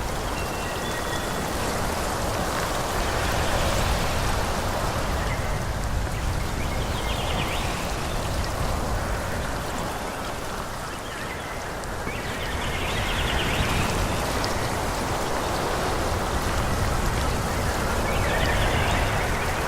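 Wind rushing through forest trees, rising and falling in slow gusts, with a low rumble underneath. A few faint high chirps sound near the start and during the louder swells.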